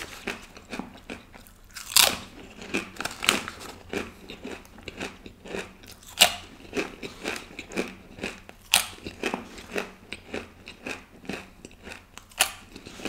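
Banana chips being bitten and chewed: a quick run of dry crisp crunches, with a handful of louder bites spread through.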